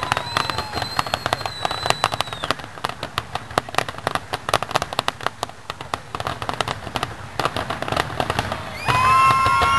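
Fireworks crackling: many rapid sharp pops a second, thinning out after about seven seconds. A high held whistling tone sounds over the crackle in the first two seconds, and a lower held tone near the end.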